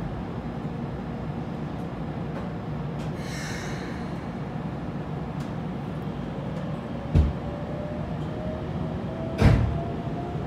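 Keikyu 600 series electric train heard from inside the car while under way: steady rumble of the running gear, with a thin whine from its Toyo GTO-VVVF inverter drive slowly rising in pitch from about six seconds in as it gathers speed. A brief hiss about three seconds in, and two heavy thumps from below about seven and nine and a half seconds in.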